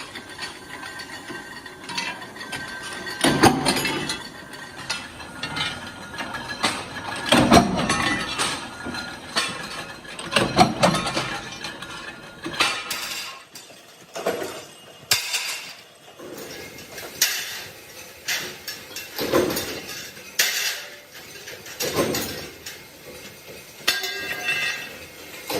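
Metal clanking and knocking from metalwork. A few heavier, deeper knocks come in the first half, then sharp metallic clinks about every second and a half.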